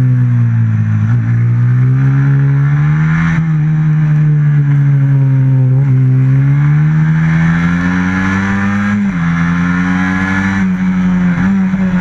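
Race motorcycle's stock FXR150 single-cylinder four-stroke engine at racing revs, heard on board. Its pitch sags near the start, climbs under acceleration, drops sharply about nine seconds in and again near the end as it is shifted up, then climbs again.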